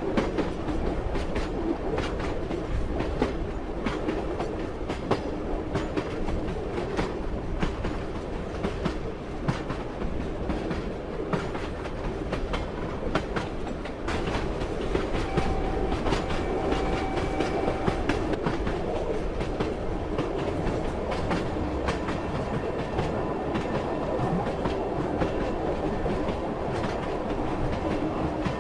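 Train running on the rails, its wheels knocking over the rail joints in an uneven clickety-clack over a steady rumble.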